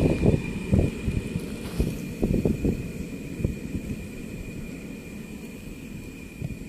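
Freight train of open wagons rolling away, its low rumble and wheel noise fading as it recedes, with wind gusting on the microphone.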